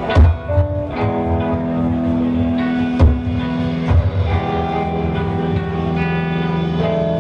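Live rock band playing an instrumental passage: guitars and bass holding droning chords, with a few heavy drum hits at the start and around three and four seconds in.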